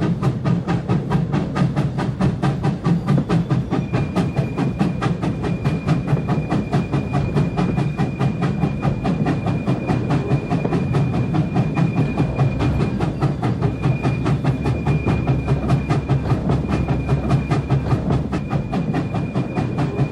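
Oil-fired steam locomotive running, heard from the cab: a fast, even run of knocks and chuffs over a low rumble. Over it the wheels give a steady high squeal, which they 'really sing'; the squeal drops out at the start and comes back about four seconds in.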